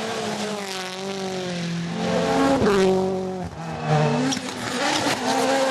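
Rally car engine at high revs, its pitch rising and dropping several times through gear changes and lifts, heard from inside the car.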